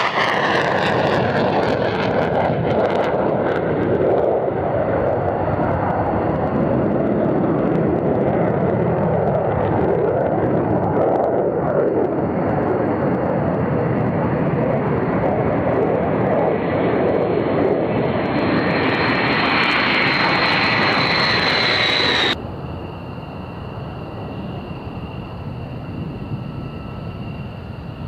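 Military jet engines on takeoff: loud, steady jet noise, with a falling pitch at the start as one aircraft goes past and a high whine building before an abrupt cut about 22 seconds in. After the cut a quieter jet whine with steady high tones.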